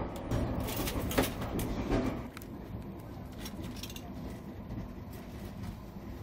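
Trenhotel night train running on the rails, heard from inside the carriage: a low rumble with sharp clicks over the first two seconds, dropping to a quieter, steady rumble after about two seconds.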